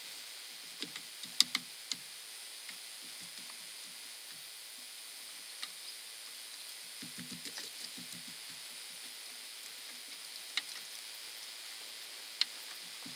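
Scattered light clicks and knocks, a sharp one about a second and a half in and a few more later, over a steady faint hiss, with a cluster of soft low thuds about halfway through.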